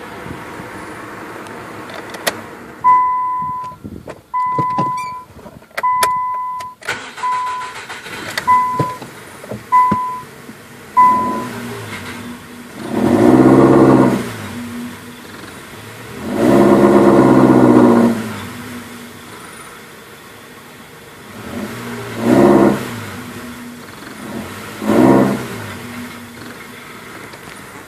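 A car's warning chime beeps seven times in a row, with a few clicks among the beeps. Then the swapped-in engine of a B15 Nissan Sentra is revved four times, briefly each time, settling back to a steady idle between revs.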